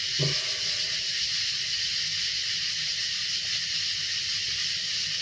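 Steady high-pitched hiss with no distinct pops or bangs.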